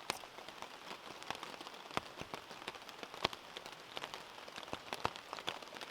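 Steady rain falling, a constant hiss with many irregular, sharp drop hits.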